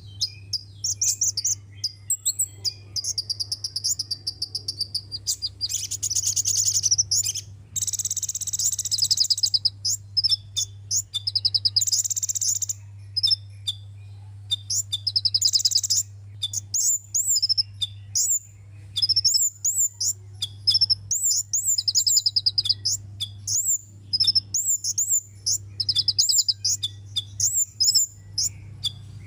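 Sunbird song: rapid high-pitched chirps, quick up-sweeping notes and fast trills in dense phrases, over a steady low hum.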